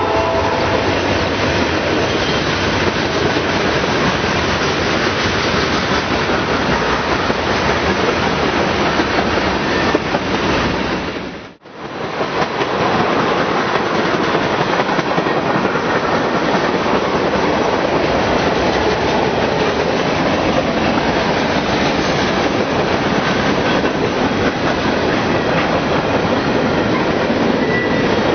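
Freight train rolling past at close range, a steady loud rumble and clatter of wheels on rail with some clickety-clack over the joints. The sound drops out briefly about eleven seconds in, then resumes.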